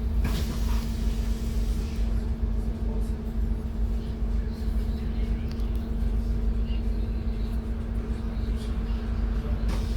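Scania DC09 compressed-natural-gas engine of a double-decker bus running under way, heard inside the upper deck: a low rumble with a steady, unchanging hum.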